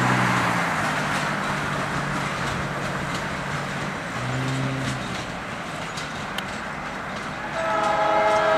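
Passenger train rolling away on the rails, its running noise slowly fading. Near the end a train air horn starts sounding a steady multi-note chord from the head end, louder than the fading rail noise.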